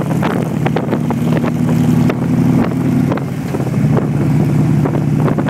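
Motorcycle engine running steadily on the move, its note dropping slightly about three seconds in, with wind buffeting the microphone.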